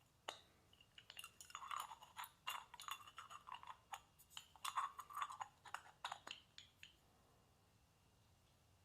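Small metal parts clinking and tapping as they are handled and set down in quick irregular succession, stopping about seven seconds in.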